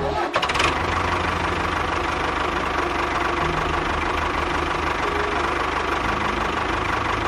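A small engine running steadily at a fast, even beat. It cuts in abruptly at the start.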